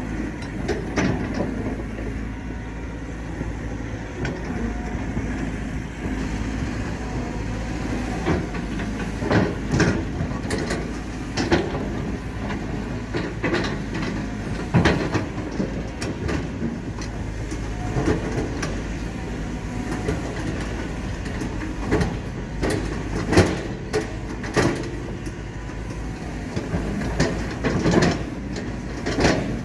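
Diesel engine of a Cat 320 excavator running steadily under load, with frequent irregular metallic clanks and knocks from the machine working soil.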